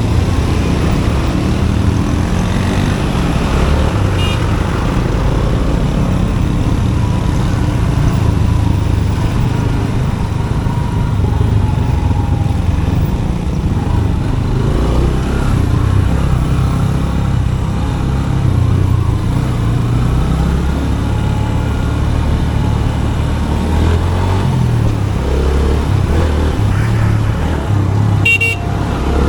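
Motorcycle engine running steadily while riding through traffic. A brief horn toot sounds near the end.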